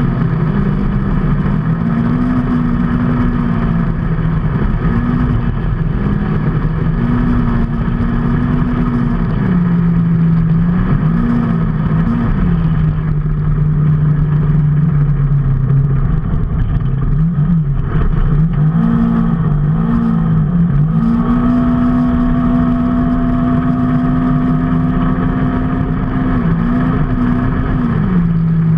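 A motor vehicle's engine running under way, its pitch holding steady for stretches and then dropping and rising several times as the speed changes, over steady road and wind noise.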